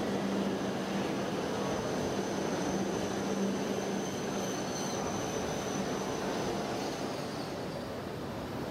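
Shinkansen bullet train running slowly past on an elevated track, a steady rolling rumble with a low hum and a faint high whine that fade out about six to seven seconds in.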